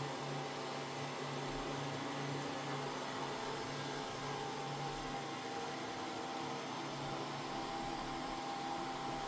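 Mova Z60 robot vacuum-mop running steadily as it cleans: an even whir with a low, steady hum underneath.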